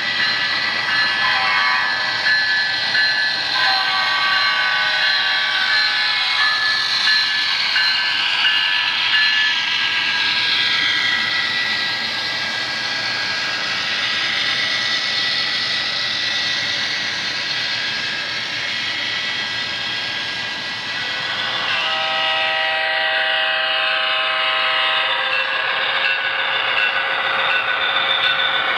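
Train sounds: the steady noise of a train running past, with a chord-type train horn blowing a series of blasts in the first several seconds and one more blast of about three seconds later on.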